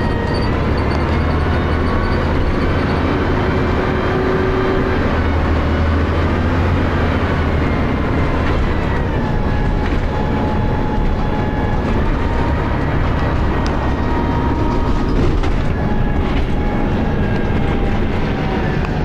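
Dennis Arrow bus diesel engine and ZF automatic gearbox running under way, recorded on a phone. A low engine rumble sits under several whining tones that step down in pitch about nine seconds in and fall again near the end. The gearbox is one the uploader describes as slipping.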